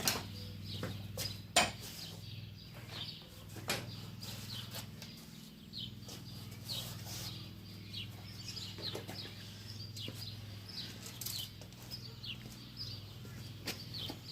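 Hard objects knocking and clattering as things are moved around in a rummage, with a few sharper knocks near the start, one about a second and a half in and another near four seconds. Birds chirp in the background over a steady low hum.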